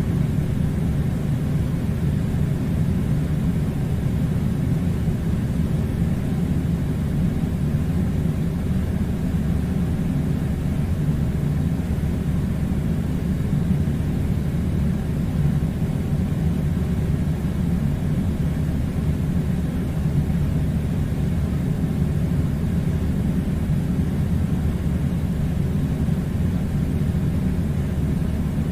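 Air conditioner running with a steady, unchanging low rumble.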